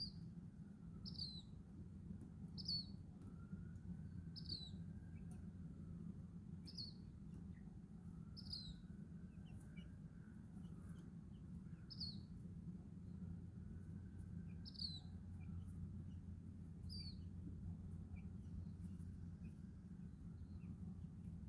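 Baby chicks peeping: single short, high, falling peeps about every one and a half to two seconds, thinning out near the end, with fainter scattered chirps over a steady low hum.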